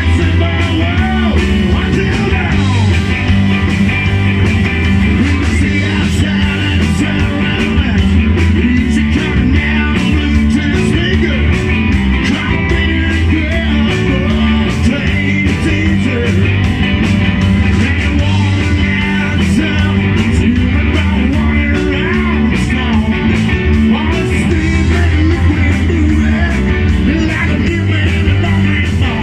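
Rock and roll band playing live: sung vocals over electric guitar, bass and drums, keeping a steady beat.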